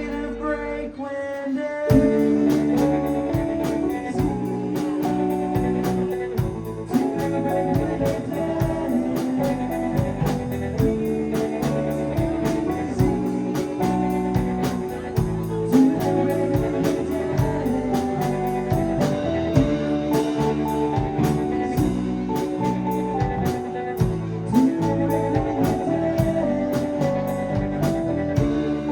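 Live rock band of electric guitar, bass, drum kit and keyboards playing a song. A held chord gives way about two seconds in to the full band coming in, with a driving drum beat and cymbals.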